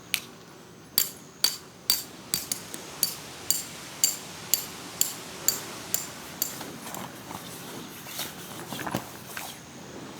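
A series of sharp metallic knocks, about two a second for some five seconds, then lighter, scattered knocks.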